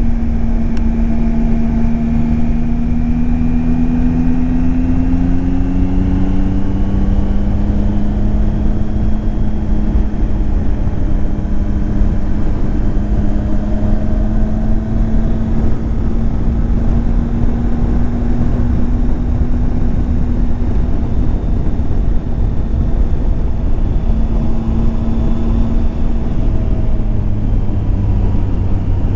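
Triumph Tiger 800 XCX's three-cylinder engine running while riding, its pitch rising gently over the first several seconds and then holding steady, with a brief dip near the end. A heavy low rumble of wind on the microphone runs under it.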